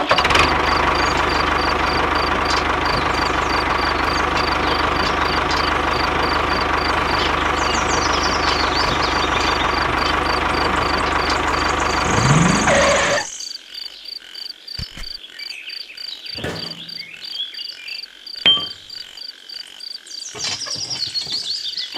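Tractor engine idling steadily, cutting off suddenly about 13 seconds in. After it come light clicks and taps of small toy parts being handled as a trolley is hitched to a toy tractor, with one sharper tick near the end.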